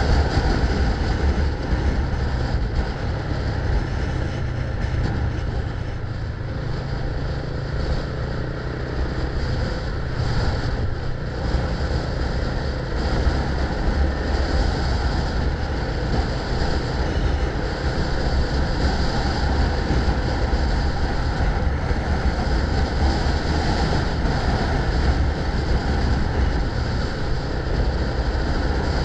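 Wind rushing over the microphone of a moving rider, a steady low rumble with road noise underneath.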